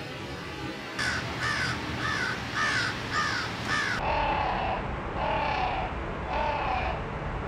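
A bird's harsh calls repeated about twice a second, giving way abruptly about four seconds in to a lower-pitched series of similar calls about once a second.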